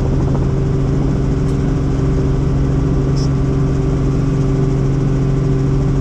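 Helicopter in flight, its engine and rotor making a loud, steady drone with several constant low tones.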